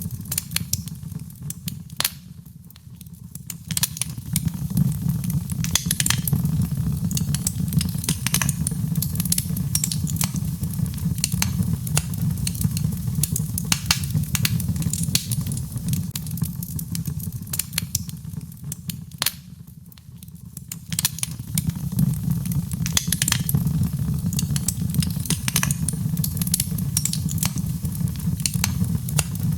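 Birchwood fire burning in a fireplace: a steady low rumble of flames with frequent sharp crackles and pops. The fire eases off briefly twice, about two seconds in and again around twenty seconds in.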